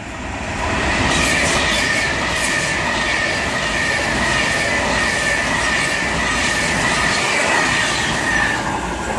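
Class 390 Pendolino electric train passing through at speed: a rush that builds over the first second into a loud steady roar of wheels on rail, with a high whine held throughout that sinks slightly in pitch near the end.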